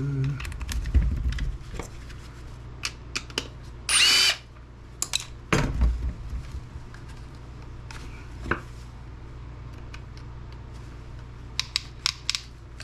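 A handheld power driver runs in short bursts to remove screws from a plastic camera battery charger. One brief whir about four seconds in is the loudest sound. Sharp clicks and knocks of the plastic case being handled fall between the bursts, several in quick succession near the end.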